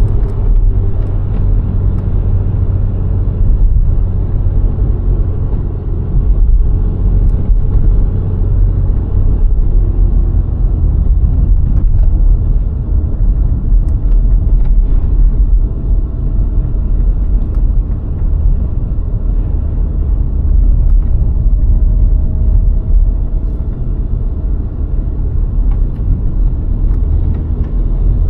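A VW Golf IV 1.6 driving on a country road: a steady, heavy low rumble of tyres, road and wind, with the engine note faint beneath it and drifting slightly in pitch, and a few light knocks from bumps.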